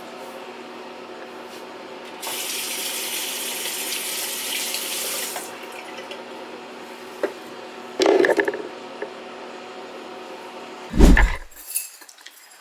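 Water running for about three seconds, over a steady hum. A short clatter follows, then a loud thump near the end.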